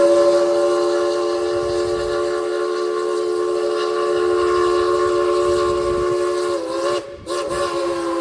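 Steam locomotive whistle blowing a long, steady blast, several notes sounding together. It breaks off briefly about seven seconds in, then sounds again.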